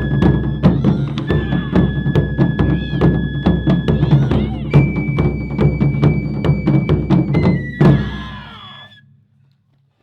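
Japanese taiko drum ensemble playing a fast run of strokes under long held high notes, ending the piece with one last big hit about eight seconds in whose ring dies away.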